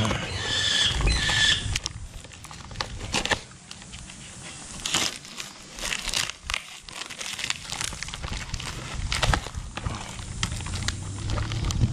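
Packaging crinkling and rustling, with irregular crackles and clicks, as a snare trap kit is handled and unpacked.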